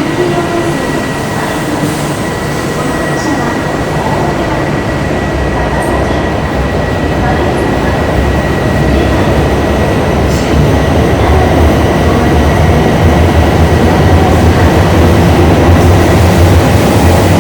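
Shinkansen train running at a platform in an underground station, a steady rumble that grows louder throughout, with a thin steady high-pitched tone over it.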